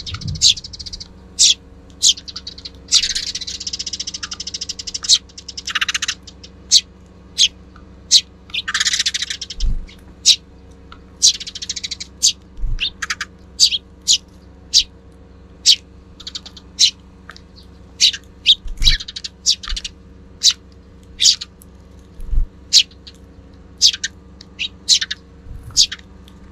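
Tree sparrows, fledglings among them, chirping: many short sharp chirps at an irregular pace, with a few bouts of dense rapid chattering. Several brief low thumps come through underneath.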